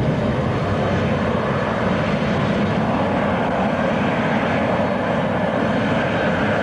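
Jet airliner engines running, a steady rushing noise that holds level.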